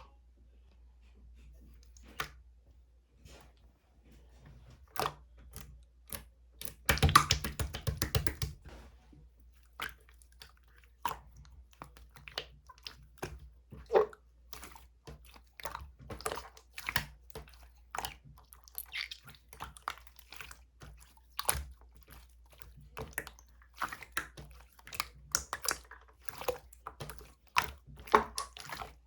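Clear slime being worked by hand: irregular sticky pops and clicks as it is pressed and pulled, with a dense run of crackling pops about seven seconds in.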